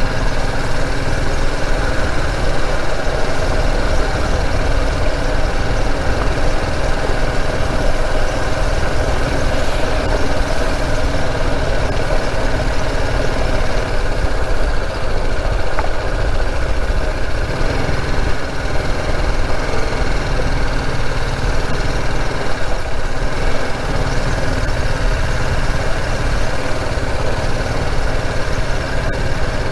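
Motorcycle engine running at a steady, even speed while being ridden.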